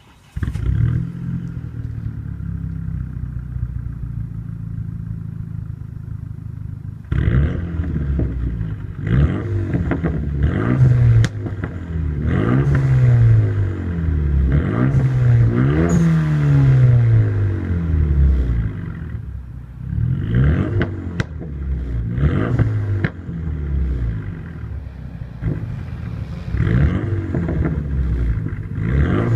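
Renault Mégane 3 RS's turbocharged 2.0-litre four-cylinder breathing through a full-tube catback exhaust. It idles steadily for about seven seconds, then is revved over and over, the note climbing and falling, with quicker short blips in the last third.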